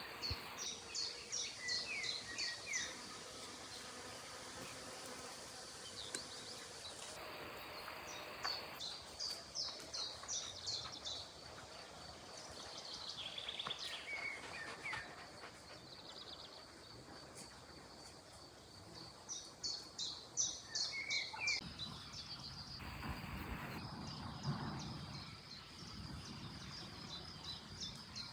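A songbird singing short phrases of rapid high notes, each ending in a few lower sliding notes, repeated several times with pauses of several seconds between them. A steady high-pitched hum runs beneath.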